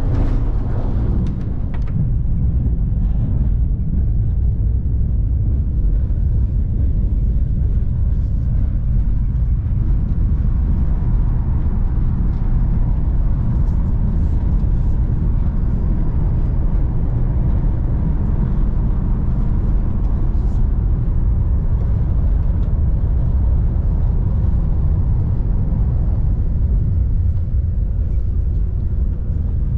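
Steady low rumble of a KTX-EUM electric multiple-unit high-speed train running at speed, heard from inside the passenger cabin.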